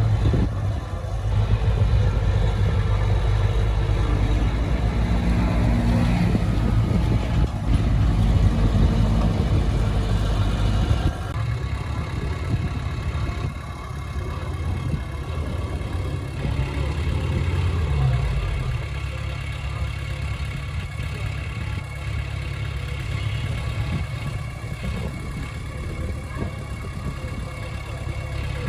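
Heavy diesel engine of earthmoving machinery running steadily, heavy and loud at first, then dropping abruptly to a lighter, quieter note about eleven seconds in.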